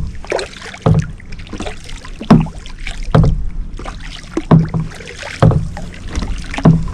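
Kayak paddle strokes in the water, a short sharp stroke about once a second, with a steady hiss of water between them.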